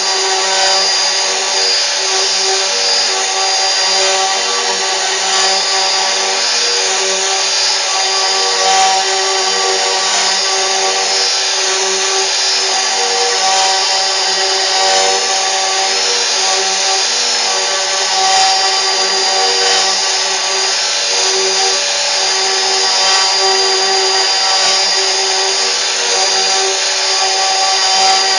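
CNC router spindle running steadily while the machine cuts, a constant whine with several steady tones over a rough cutting noise.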